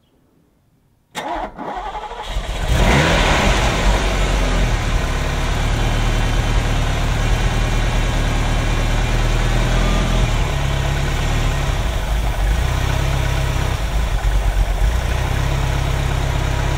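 Ferrari V8 with Bosch K-Jetronic fuel injection starting from cold with its cold-start injector disconnected. The starter cranks briefly about a second in, the engine catches within about a second and a half, and it settles into a steady fast idle.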